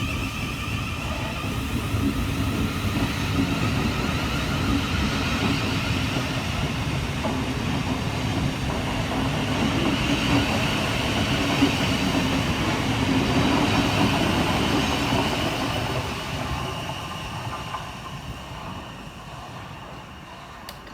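Siemens Class 700 Thameslink electric multiple unit pulling out of the station, its traction motors and wheels on the rails running steadily, then fading away over the last five seconds or so.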